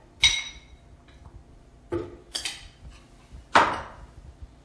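Kitchenware clinking and knocking while ingredients are tipped into a blender jug. There is a sharp ringing clink at the start, a few lighter knocks around two seconds in, and another loud knock about three and a half seconds in.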